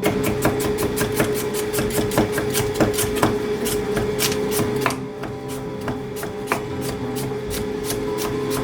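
A kitchen knife chopping on a cutting board in quick even strokes, about four a second, which grow softer and sparser about five seconds in.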